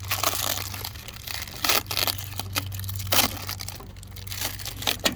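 Masking tape being peeled off and tearing, with irregular crinkling rips and rustles. A steady low hum runs underneath.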